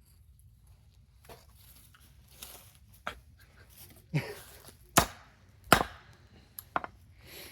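Hammer blows driving a nail into a wooden stump: about half a dozen sharp, irregular strikes, the two loudest about a second apart midway through.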